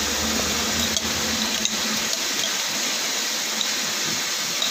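Mixed vegetables and crab fat sizzling steadily in margarine in a hot wok, with a few faint clicks of a metal spoon on a glass jar.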